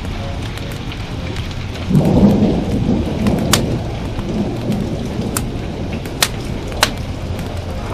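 Steady rain with a roll of thunder that starts about two seconds in and slowly fades. Several sharp pops from a crackling wood fire stand out.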